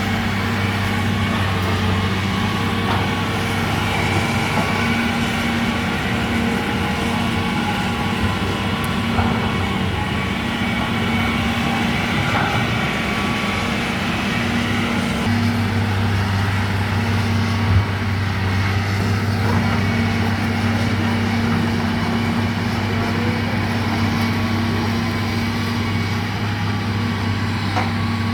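Heavy engine of earthmoving machinery or a truck running steadily with a continuous low drone; its lowest tone drops away for a few seconds around the middle, then returns.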